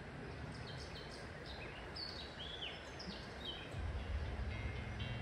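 Songbirds chirping, a quick run of short whistled notes over a steady background hiss. A low hum comes in about two-thirds of the way through, and music starts at the very end.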